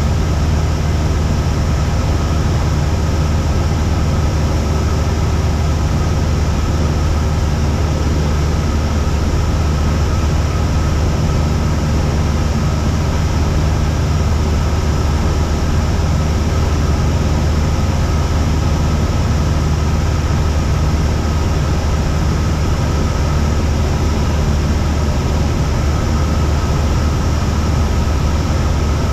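Cessna 172's single piston engine and propeller droning steadily, heard inside the cabin.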